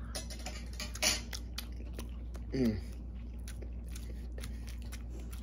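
Person chewing a mouthful of couscous close to the microphone, with many small wet mouth clicks, and one short voiced sound about two and a half seconds in.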